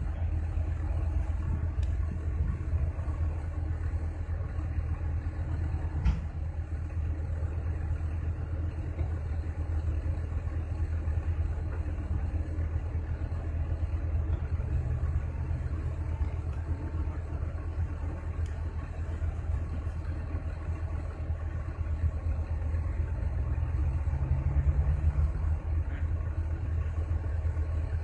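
Heavy diesel engine of earthmoving machinery running steadily with a low rumble. There is a sharp knock about six seconds in, and the engine note briefly rises near the end.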